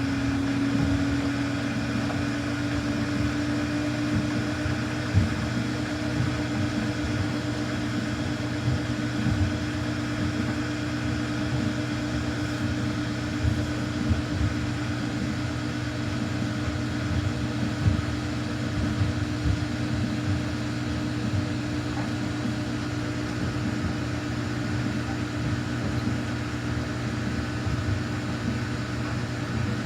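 Samsung washing machine running a quick wash cycle with towels inside: a steady motor hum and whine that rises slightly in pitch about a second in, then holds, over irregular soft knocks from the load in the drum.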